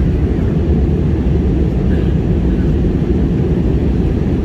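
Airliner cabin noise in flight: the steady low rumble of the engines and rushing air heard inside the passenger cabin.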